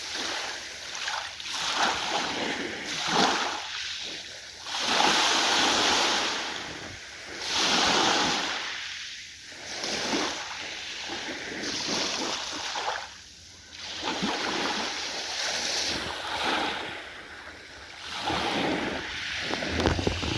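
Ocean waves breaking and washing in, the surf swelling and falling away every couple of seconds. A low hum comes in near the end.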